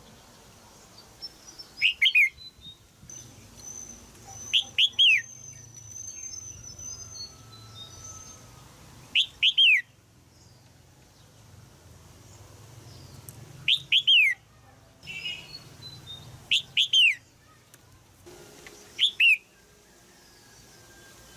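Red-whiskered bulbul giving sharp chirping calls, single or in quick pairs of falling notes every few seconds: a female's calls used to prompt a young male to sing. Fainter high twittering runs behind them.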